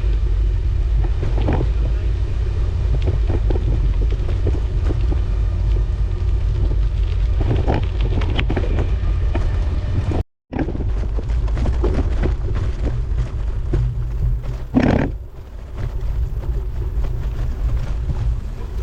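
Wind buffeting the microphone while riding a bicycle: a loud, steady low rumble. The sound cuts out completely for a moment about ten seconds in.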